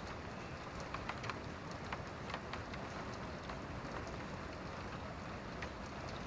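Steady rain falling, with scattered individual drops ticking sharply at irregular moments over a constant hiss.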